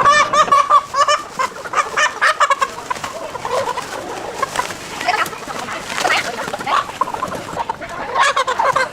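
Chickens clucking and calling, many short overlapping calls, loudest in the first couple of seconds.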